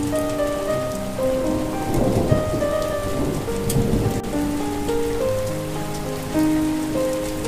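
Steady rain with a low rumble of thunder from about two seconds in, under a slow, soft melody of held notes.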